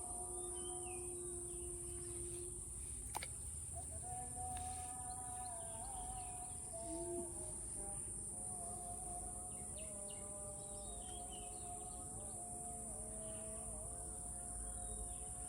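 Outdoor ambience: a steady high-pitched insect drone with scattered bird chirps, under a held, slowly wavering melody line from soft background music.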